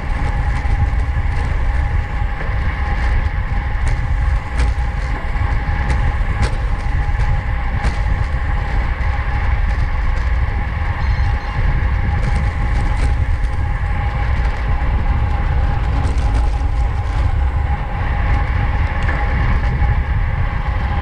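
Wind rushing over the microphone of a camera mounted on a road bike at racing speed, with a steady whir from the bicycle's tyres and drivetrain and a few faint ticks.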